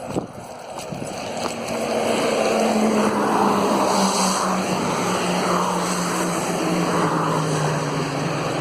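An engine droning past, building over the first few seconds and then holding, its low hum falling slowly in pitch.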